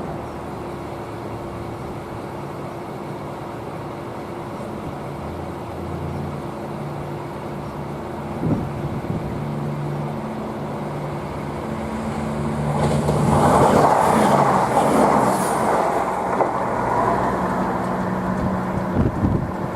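Diesel train running past, its engine holding a steady note with a rising rush of wheel and body noise. The noise is loudest for a few seconds about two-thirds of the way through as the train goes by, then eases off.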